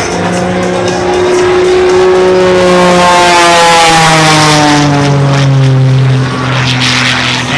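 Propeller-driven aerobatic plane making a fast pass: its engine drone grows loudest about three to four seconds in, then drops in pitch as it goes by.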